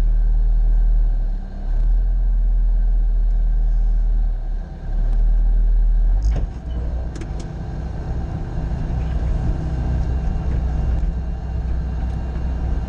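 Bobcat skid-steer loader's diesel engine running steadily at a constant pitch, dipping briefly twice. About six seconds in there are a few sharp knocks, and the engine sound turns rougher and more uneven.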